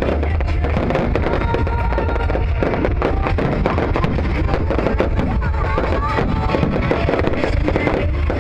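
Fireworks going off continuously, a dense run of sharp cracks and pops over a low rumble, with music playing over them.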